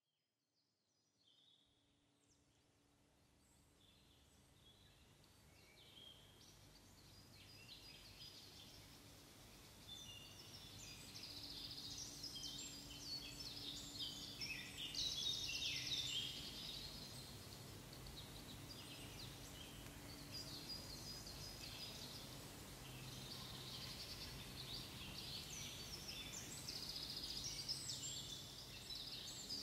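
Many small birds chirping and twittering in quick, overlapping high calls over a faint steady hum, fading in gradually from silence over the first ten seconds or so.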